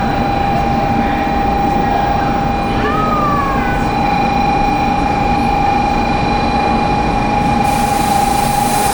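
Shinkansen bullet train running through the station: a steady loud rush of wheels and air with a constant high whine, and a short squeal about three seconds in.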